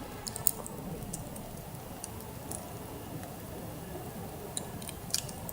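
Campfire crackling faintly: scattered small sharp pops over a low steady background hiss.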